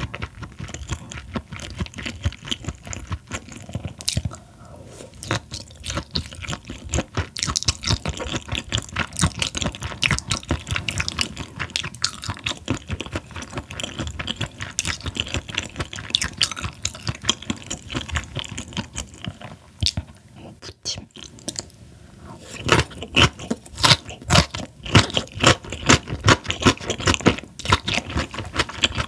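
Close-miked chewing of raw Chinese herring, with many small crisp, irregular clicks. The chewing eases off briefly about twenty seconds in, then comes back louder.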